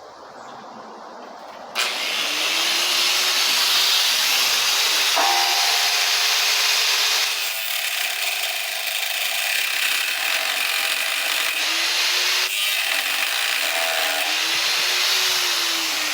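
A handheld power tool starts abruptly about two seconds in and runs under load with a loud, steady hiss, its pitch sagging and recovering a few times as it bites into the work.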